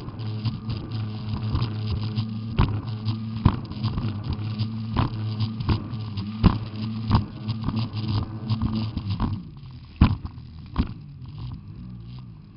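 Jet ski engine running at a steady pitch, with frequent sharp knocks over it; about three-quarters of the way through the engine drops away and the sound goes quieter, with a few last knocks.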